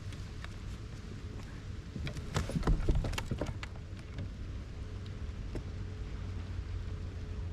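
A quick run of clicks and knocks, about two to four seconds in, from a fish and gear being handled aboard a kayak, over a low steady rumble.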